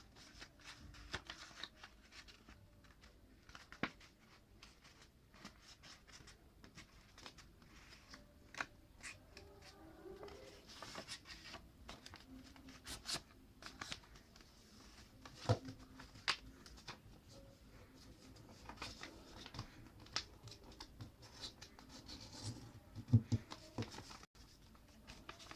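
A square sheet of paper being folded and creased by hand: faint, scattered rustles and crinkles with a few sharper taps as the folds are pressed down.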